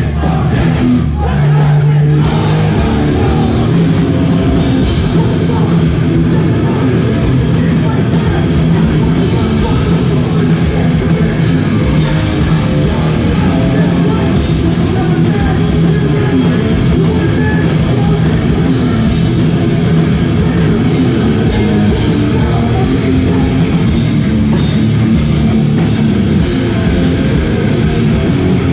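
Live hardcore band playing loud, with heavy guitars, drums and vocals. There are a couple of stop-start hits in the first two seconds, then the full band drives on steadily.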